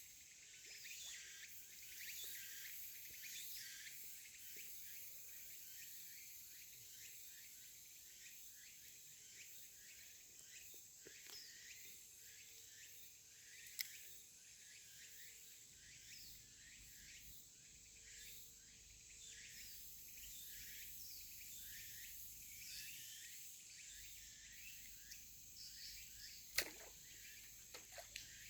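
Faint outdoor chorus of summer insects: a steady high hiss with many short chirps. A sharp click comes about fourteen seconds in and another near the end.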